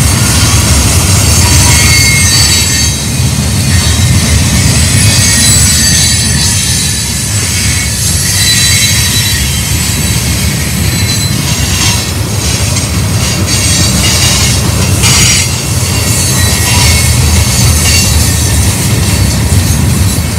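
Freight train cars rolling past with a steady low rumble and high-pitched wheel flange squeal. Wheels click over rail joints in the second half.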